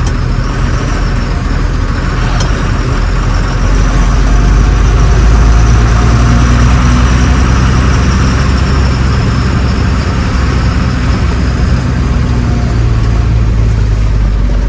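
Truck engine running steadily as the truck drives along, a low drone that grows louder about four seconds in and holds.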